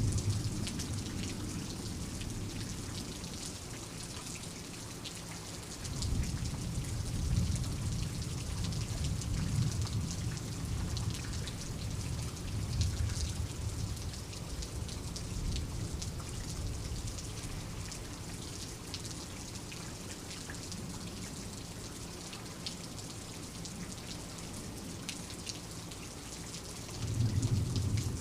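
Steady rain with distinct drops pattering. Low thunder rumbles at the start, again from about six seconds in for several seconds, and once more near the end.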